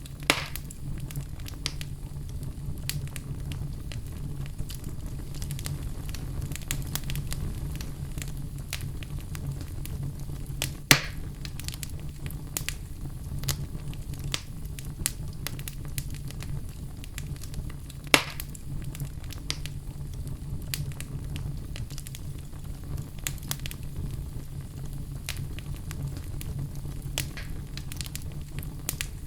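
Wood fire burning in a fireplace: a steady low rumble of flames with constant small crackles and three louder pops, about a third of a second in, at about 11 seconds and at about 18 seconds.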